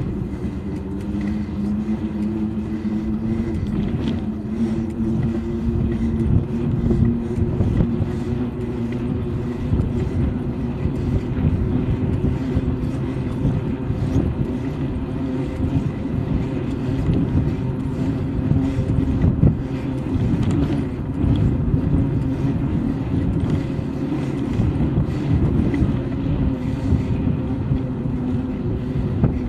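Steady riding noise on a bike ride: wind buffeting the microphone and rolling noise with a low, steady hum, broken by frequent irregular thumps and knocks.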